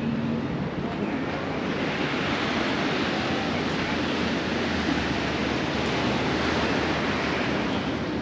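Steady rush of wind over the microphone on a moving motorcycle, with the motorcycle's engine running low underneath.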